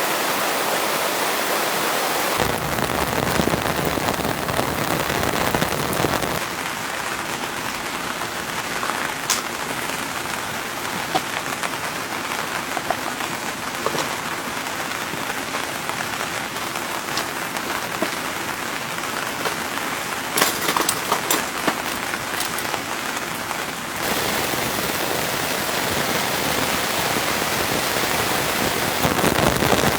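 Steady rain falling and pattering on surfaces, with scattered sharper drop hits that cluster about two-thirds of the way through. Its tone shifts abruptly a few times, growing thinner after about six seconds and fuller again near the end.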